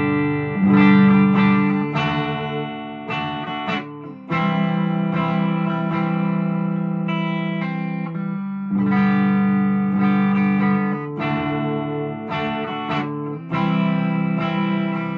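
PRS SE McCarty 594 electric guitar on its bridge humbucker in full humbucker mode, through a VOX AC10 valve amp: chords strummed and left to ring out, a new chord every few seconds. The tone is extremely bright for a humbucker.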